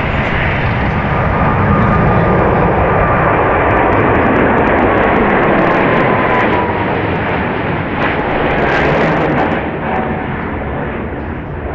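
Jet airliner's engines running loud as it passes close, a steady rushing roar with a faint whine that slowly falls in pitch, easing off near the end.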